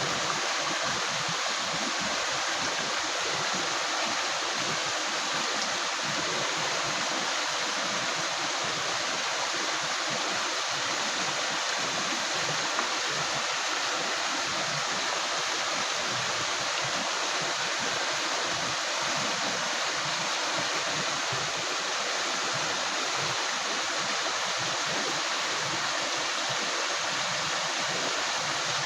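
A river's water gurgling and rushing over stones, a steady unbroken flow.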